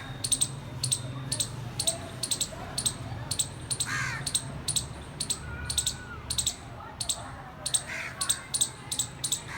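A squirrel calling: a steady series of short, sharp chirps, about two to three a second, with a longer call about four seconds in and another near the end.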